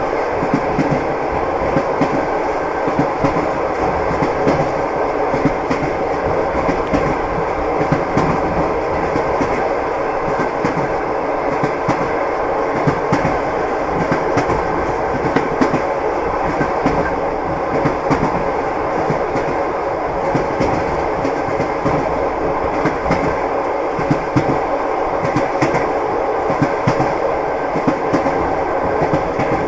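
Train wheels clattering over rail joints, a steady rumble with irregular short clicks and knocks, heard from a moving railway carriage.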